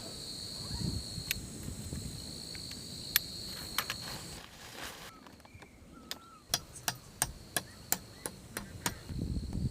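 Insects trilling outdoors in a steady high tone that drops out for a while partway through and returns near the end. In the gap comes a run of sharp knocks, about three a second, over a low rumble.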